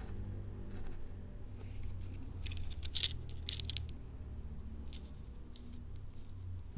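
A few short dry crackling scratches, clustered about two and a half to four seconds in with a couple of fainter ones later, over a faint steady low hum.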